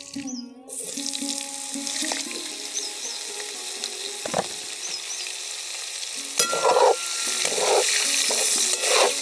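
Cubed potatoes sizzling in hot oil in a metal kadhai, the hiss starting about a second in. A slotted metal spatula scrapes and stirs them against the pan several times near the end.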